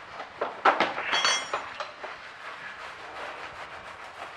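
Spilled engine oil being scrubbed off a floor: a few louder scraping strokes in the first second, a brief high squeak, then quick rhythmic scrubbing strokes.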